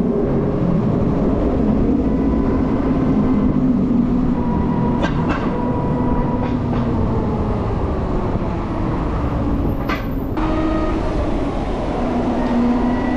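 Steady rumble of wind and city traffic heard while riding a near-silent LiveWire electric motorcycle, with faint tones that drift up and down and a couple of brief clicks.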